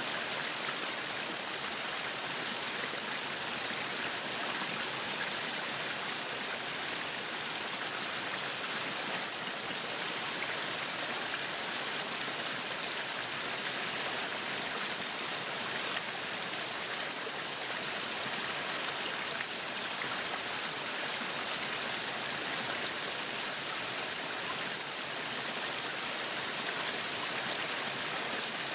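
Meat sizzling on a yakiniku grill: a steady, even hiss with fine crackling.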